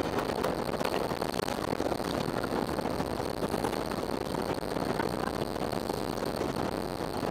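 Steady rushing noise of a jet airliner's engines and airflow, heard from inside the passenger cabin during the landing.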